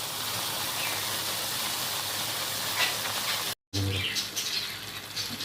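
Chicken pieces sizzling steadily in hot oil and their own released juices in a kadai. About three and a half seconds in the sound cuts off for an instant and comes back as a quieter sizzle with a few faint chirps.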